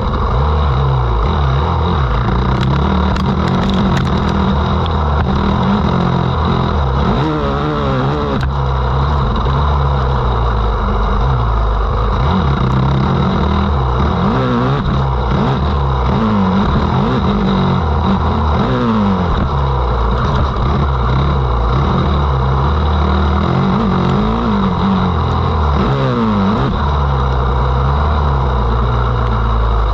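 Motocross dirt bike engine revving hard and dropping off again and again, its pitch climbing and falling with each throttle opening and gear change.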